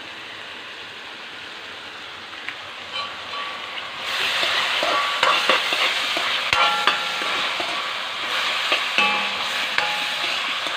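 Onions, green chillies and curry leaves frying in coconut oil in a pan: a steady sizzle that grows louder about four seconds in as they are stirred, with the metal spoon clinking and ringing against the pan.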